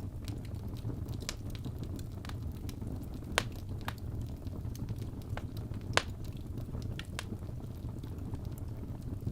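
Wood fire burning in a fireplace: a steady low rumble of the flames with scattered sharp crackles and pops from the burning logs, two louder pops about three and a half and six seconds in.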